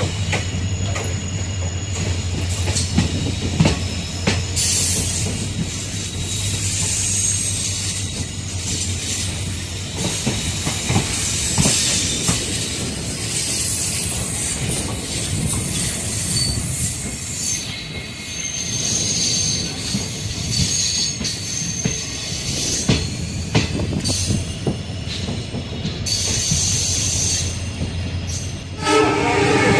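Passenger train running on the track, heard from on board: a steady rumble of wheels on rail with scattered clicks over the rail joints, and a thin high wheel squeal for several seconds near the start. The train's horn begins to sound near the end.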